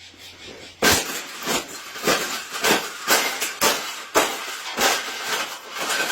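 A bird cage being smashed apart with repeated hard blows, about ten strikes at roughly two a second, starting just under a second in.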